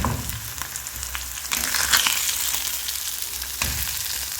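Small lambari fish frying in hot oil: a steady sizzle that swells about halfway through, with a couple of sharp clicks.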